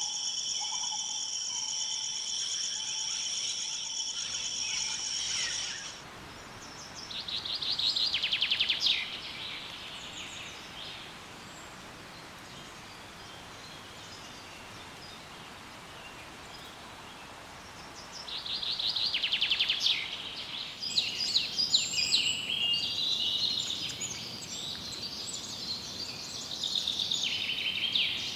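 A steady, high, pulsing trill of insects that stops abruptly about six seconds in. Then wild rainforest birds call: a fast rattling trill, another after a pause of about ten seconds, and a run of varied chirps and calls near the end.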